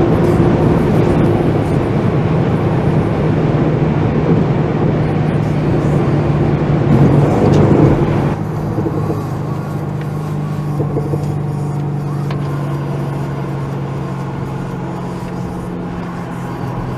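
Bentley Continental GT V8 S's 4-litre twin-turbo V8 with sports exhaust running steadily on the move, heard from inside the car. It swells briefly about seven seconds in, then drops back quieter a second later and carries on at a steady lower level.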